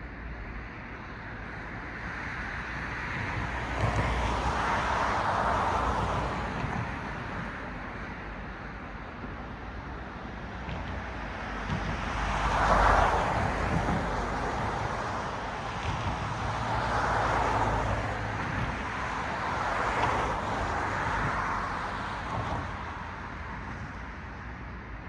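Cars passing one after another on a road, each a swell of tyre and engine noise that rises and fades away; about four go by, the loudest near the middle, over a steady low traffic hum.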